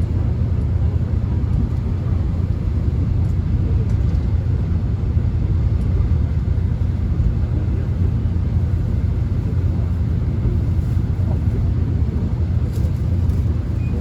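Subway train running, heard from inside the carriage: a steady low rumble with no breaks.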